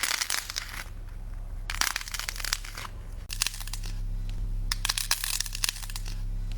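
Slime being squeezed and pressed in the hands, giving crisp crackling crunches in four bursts.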